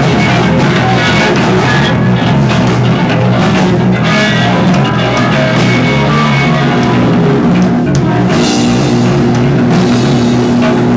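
Rock band playing live, loud and steady, with guitar and drums.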